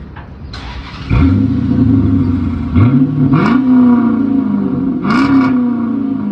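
Chrysler 300C's 5.7 HEMI V8 cranked by the starter and catching about a second in, then revved twice, its pitch rising and easing back down each time. It runs with the mid mufflers deleted and the rear mufflers still on.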